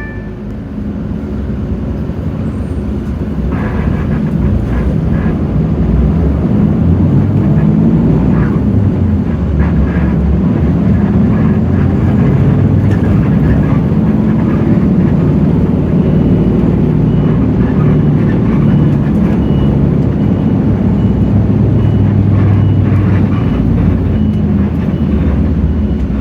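Hino J08E-VN inline-six turbo-diesel engine of a city bus running under load, heard from inside the bus, its level rising over the first few seconds and then holding steady.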